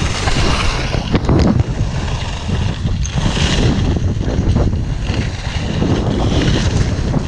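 Strong gusty wind buffeting the camera microphone, a loud rumbling rush that rises and falls with the gusts.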